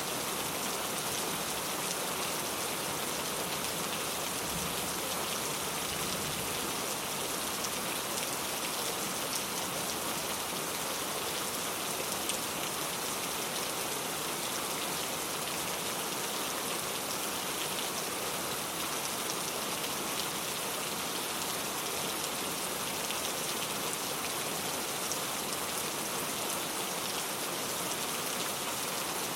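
Steady rain falling on a surface, an even hiss with scattered droplet taps.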